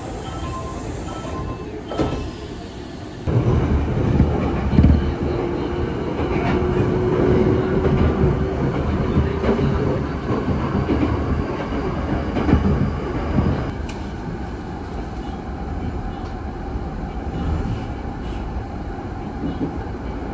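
Electric train running on rails. The noise steps up sharply about three seconds in and eases off again a little after the middle.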